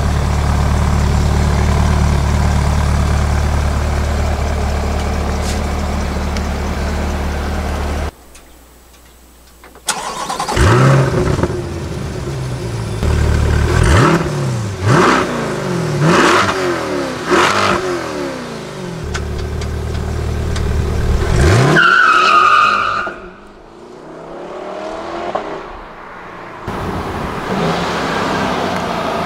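Chevrolet C8 Corvette's stock 6.2-litre LT2 V8 idling steadily. After a sudden break it is revved hard several times, each rev rising and falling in pitch, with one longer rev climbing higher near the end. It then settles back to a steady run.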